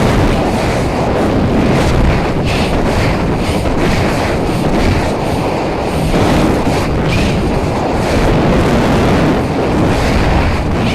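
Wind blasting across the microphone, a loud steady rush with rapid buffeting flutters.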